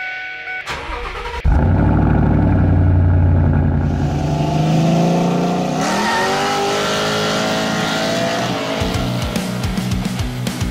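A car engine running loudly and revving, its pitch rising sharply about six seconds in. Rock music with a steady drum beat comes in near the end.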